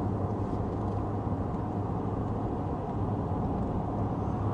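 Steady engine and road noise heard inside the cabin of a car towing a travel trailer, with a low, even hum as it climbs a steep grade.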